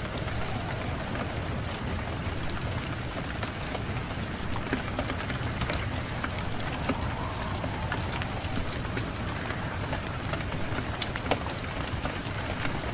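Fireplace fire crackling, with many scattered sharp pops and snaps over a steady low rush.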